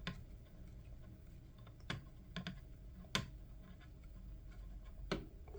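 Scattered sharp clicks and taps of small plastic headset parts being handled and fitted together, about five in all, the loudest a little past the middle.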